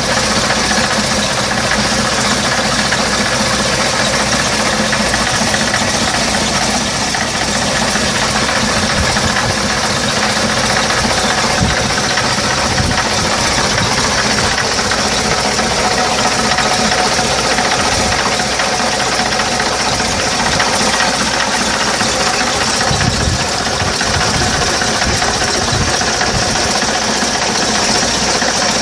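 Old London bus's Leyland six-cylinder diesel engine running steadily at idle.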